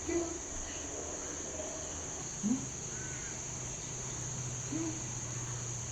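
A steady, high-pitched insect chorus, with three short, low, rising bird calls: one at the start, one about halfway and one near the end.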